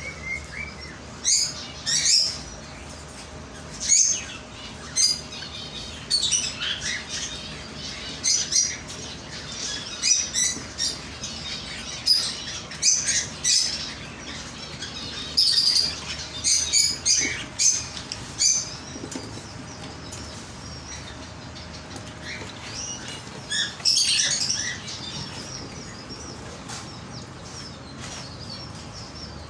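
Small birds chirping in many short, irregular bursts, busiest in the first two-thirds and thinning out near the end, over a faint steady hum.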